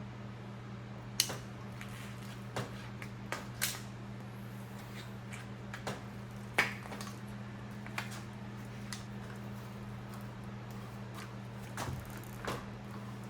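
Scattered clicks and clinks of hand tools and metal parts during motorcycle disassembly, about ten over the stretch, over a steady low hum.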